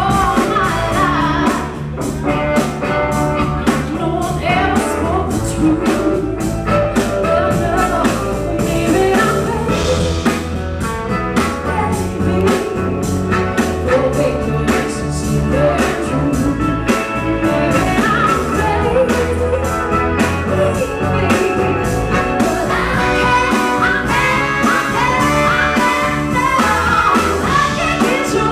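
Live soul band playing, with a woman singing lead over guitar, bass and a steady drum beat.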